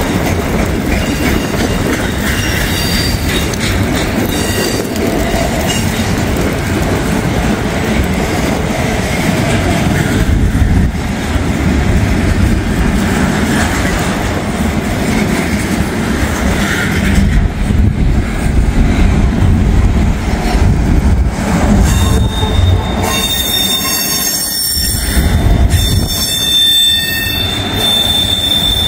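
Double-stack intermodal freight train rolling past over a grade crossing: a heavy, steady rumble of well cars on the rails. In the last several seconds a steady high wheel squeal rides over it.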